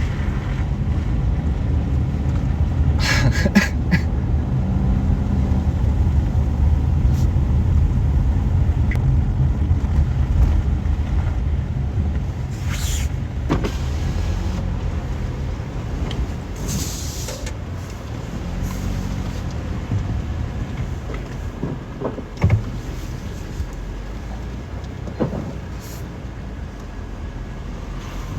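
Car driving slowly, heard from inside the cabin: a steady low rumble of engine and tyres that eases somewhat in the second half. There are a few sharp clicks about three seconds in and a single thump a little past the twenty-second mark.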